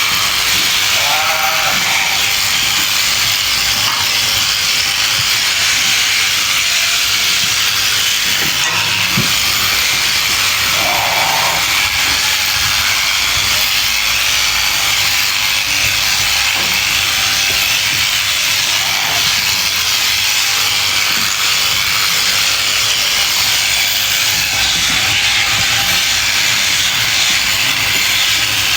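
Electric sheep-shearing clippers running steadily as they cut through fleece, a constant high hiss. A sheep bleats briefly three times: near the start, about a third of the way in, and again past the middle.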